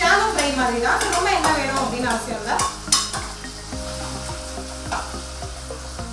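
Prawns sizzling as they fry in oil in a nonstick kadai, while a steel spoon stirs them, scraping and knocking against the pan several times.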